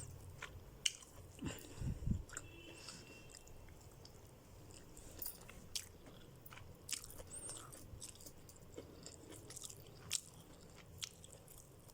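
A person eating chicken: faint chewing and biting, with scattered small clicks and crunches from the mouth.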